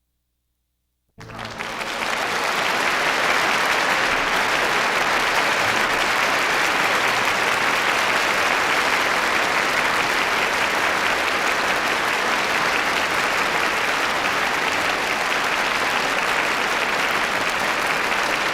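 Concert-hall audience applauding at the end of an orchestral performance, starting suddenly about a second in and filling out to a steady, dense clapping.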